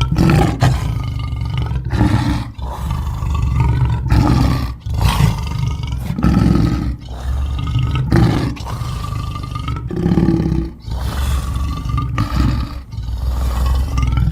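Homemade monster sound effect: a string of deep creature growls and roars, about ten in a row, each a second or so long with short breaks between them.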